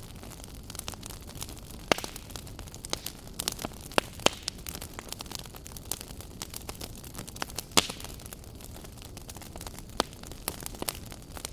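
Wood fire burning in a fireplace: a steady hiss of flame with frequent irregular crackles and sharp pops, the loudest near 2 and 8 seconds in.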